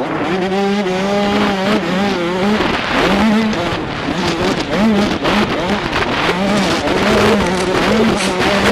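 Two-stroke 85cc motocross bike engine revving hard. Its pitch rises and falls over and over as the throttle is opened and shut and gears change on the track.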